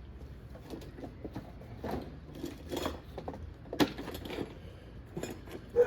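Small metal hardware being handled: scattered light clinks, clicks and knocks, with a sharper click about four seconds in and another near the end.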